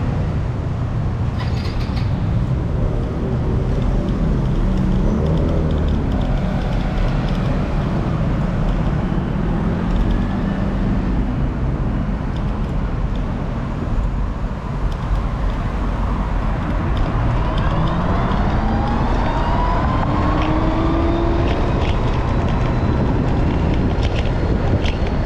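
Wind buffeting the microphone on a moving ride through road traffic, with vehicle engines running alongside. From about two-thirds of the way through, an engine speeds up in a rising whine.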